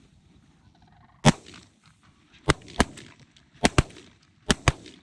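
A volley of shotgun fire at geese coming into the decoys: seven sharp shots. One comes about a second in, then three quick pairs follow over the next few seconds.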